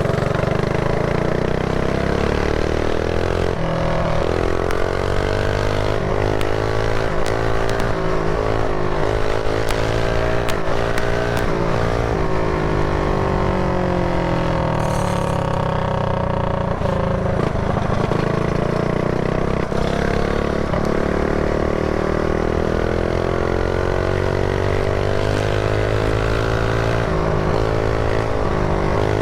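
Mini bike's small single-cylinder engine running under way, its pitch rising and falling again and again as the throttle opens and closes.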